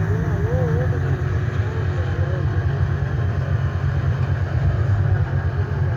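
Motor vehicle running with a steady low rumble. A faint wavering voice sounds over it near the start and again later.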